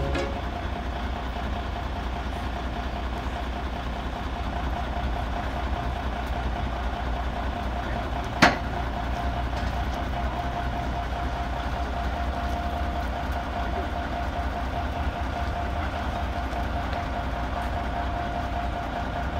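Heavy truck's diesel engine running steadily: a low rumble with a steady whine over it. A single sharp bang, the loudest sound, comes about eight and a half seconds in.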